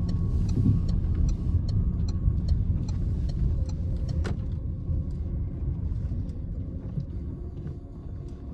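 Cabin sound of a Citroen C-Elysee with its 1.2 PureTech EB2 three-cylinder petrol engine driving: a steady low engine and road rumble. For the first couple of seconds a turn-signal indicator ticks about three times a second. There is a single sharp click about four seconds in, and the rumble eases off near the end.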